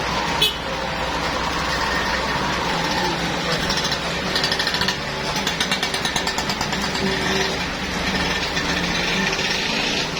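Truck engine running steadily, with a sharp click about half a second in and a rapid, even rattling for a few seconds in the middle.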